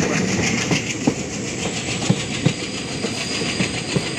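Express train coaches running along the track: a steady rumble and rattle, with the wheels knocking irregularly on the rails.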